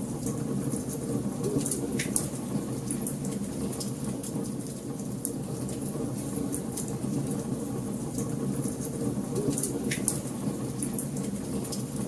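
Wood fire burning in a fireplace: a steady low rush of flames with scattered sharp crackles and pops, two louder pops about two seconds in and near the end.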